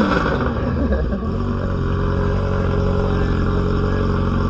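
Motorcycle engine coming down from a throttle blip, its pitch falling over the first second or so, then settling into a steady idle.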